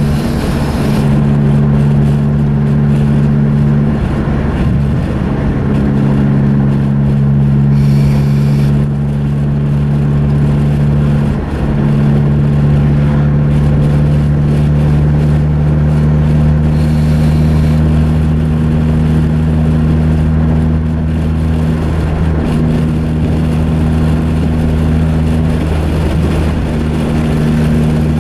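Mazda 3's 2.3-litre four-cylinder with a fart-can exhaust, droning steadily at cruising speed over tyre and road noise. The drone breaks briefly twice, a few seconds in and again about halfway.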